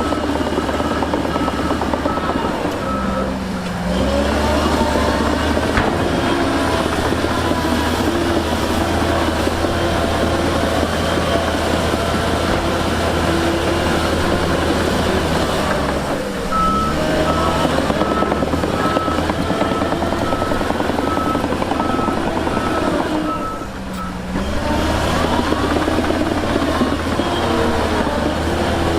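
Heavy diesel earthmoving machinery running steadily, with a reversing alarm beeping at an even pace during the first few seconds and again for several seconds in the second half as a machine backs up. The engine pitch shifts each time the beeping stops.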